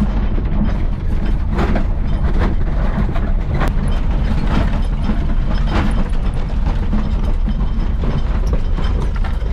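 Suzuki Samurai and Suzuki Vitara engines straining under load as the two 4x4s pull against each other, over a heavy low rumble with irregular clattering clicks and knocks.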